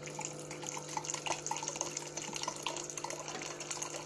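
Mr. Coffee BVMC-KG2B single-serve coffee maker brewing: hot water dripping and trickling into the cup over a steady low hum from the machine. It is running normally, the repaired lid holding.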